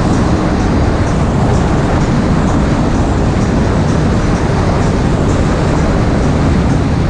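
Jet ski engine running steadily at speed: a loud, even drone over a rushing wash of noise.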